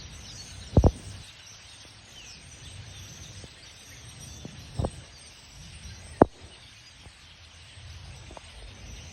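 Faint chattering of a large flock of birds. A few sharp knocks come through it: a double one about a second in, then others past the middle and near the end.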